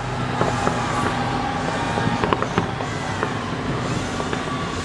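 Fireworks display going off continuously: a dense run of short pops and bangs over a steady noisy din.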